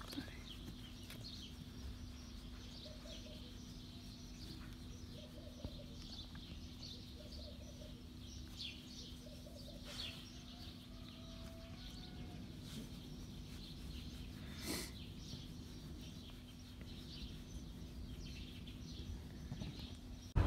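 Faint chirping of small birds over a steady low hum, with one brief noise about fifteen seconds in.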